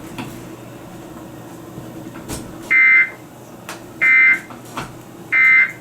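Emergency Alert System end-of-message signal: three short bursts of buzzing digital SAME data tones, about 1.3 seconds apart, starting a little under three seconds in.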